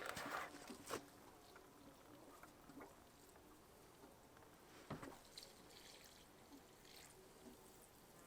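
Near silence broken by a few faint, sharp clicks and knocks: a cluster at the start, one about a second in and one about five seconds in.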